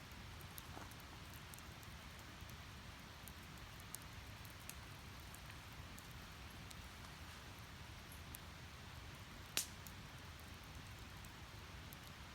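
Wood fire crackling in a steel fire pit: a faint steady hiss with scattered small pops, and one sharp, louder crack about nine and a half seconds in.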